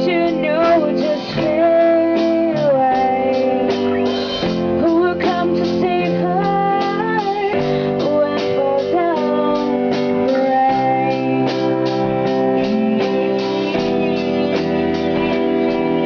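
A band playing a song: a lead melody that bends and glides in pitch over held chords and a steady drum beat.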